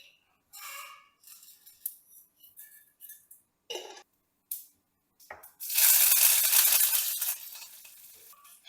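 Dishes and glassware clinking and knocking a few times. About halfway in, water starts running loudly from a kitchen tap into a sink, then eases off.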